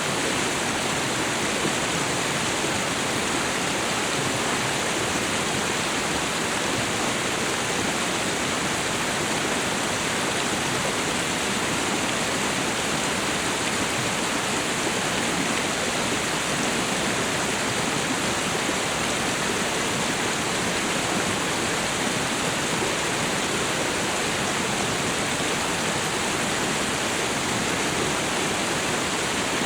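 Waterfall and river water rushing in a steady, even roar, with no breaks or separate splashes.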